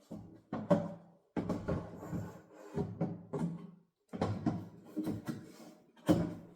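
Refrigerator shelves and drawers being handled and fitted into a new fridge: a run of knocks, clacks and scraping creaks in short spells about a second apart.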